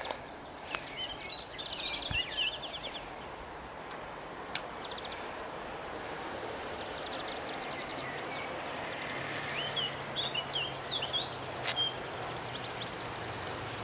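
Songbirds chirping and singing over a steady outdoor background hiss, in two spells: in the first few seconds and again from about nine to twelve seconds in. A few faint clicks are heard, and a faint low hum comes in past the middle.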